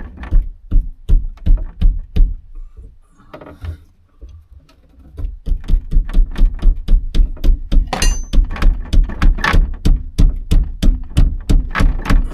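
Rhythmic knocking on the truck's cab during work on a stuck headliner fastener. It comes as a short run of about six knocks, a pause of a few seconds, then a steadier run of about three knocks a second from about five seconds in.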